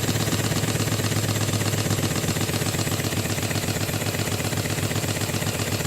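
Stuart compound launch engine, a small two-cylinder compound model steam engine, running steadily with a fast, even beat.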